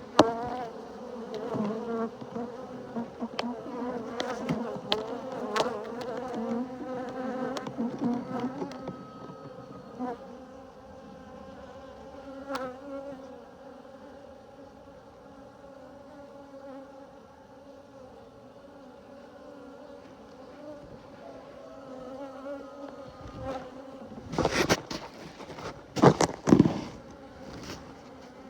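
Many honeybees buzzing around an open hive, heard close up through a phone in a beekeeper's suit pocket, with scattered clicks. A few loud knocks and rustles come near the end.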